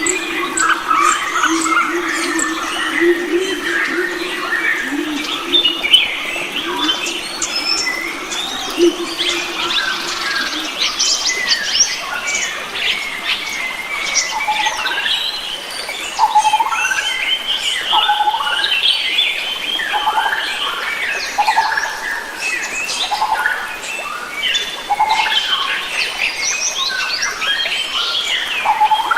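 A chorus of many wild forest birds calling and singing at once, with chirps and whistles overlapping throughout. For the first ten seconds or so, a low steady hum runs beneath them.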